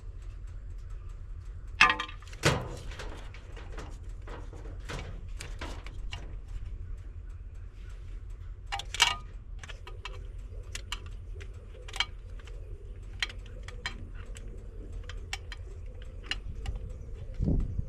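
Hand tools being handled: scattered metallic clicks and clinks, with louder knocks about two seconds in and again around nine seconds, over a steady low hum.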